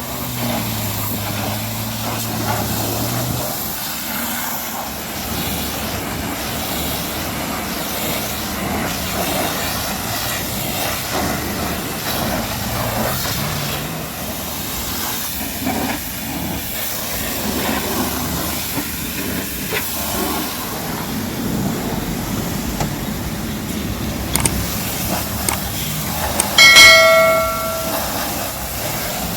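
Pressure washer spraying water onto a car with a steady hiss, a low hum under it for the first few seconds. A short, loud, high-pitched squeal about a second long sounds near the end.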